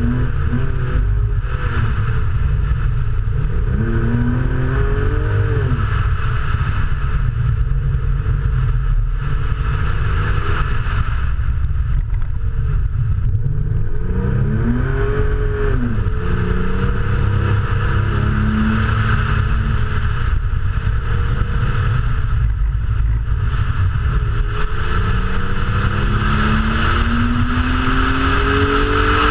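Car engine driven hard, its pitch climbing and dropping several times as it accelerates and lifts, with a long steady climb near the end, over heavy road and wind rumble.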